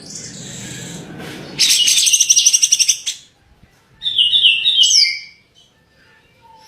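Songbird singing: a loud, rapid pulsed trill about a second and a half in, then a short phrase of stepped, sliding high notes.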